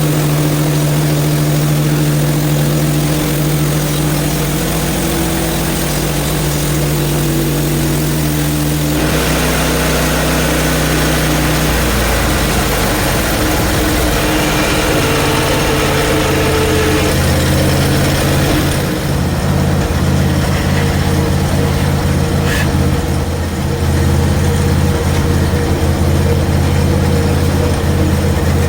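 The 23 hp Briggs & Stratton engine of a portable bandsaw mill runs steadily under load as the band blade saws through a frozen log. The sound changes about nine seconds in, when a wider hiss joins the engine, and the high hiss falls away about two-thirds of the way through.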